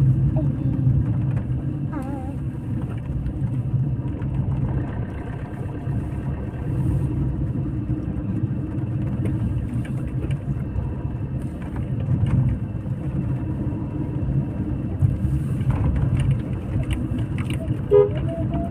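Motor vehicle driving on the road: a steady engine and road rumble, with a short horn beep near the end.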